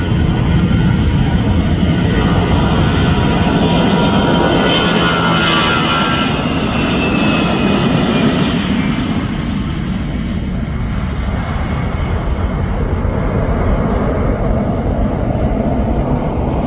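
Finnair Airbus A320's CFM56 jet engines at takeoff thrust as the airliner passes: a loud rumble with a whine that peaks about six seconds in and falls in pitch, then the whine fades as the aircraft moves away, leaving a low rumble.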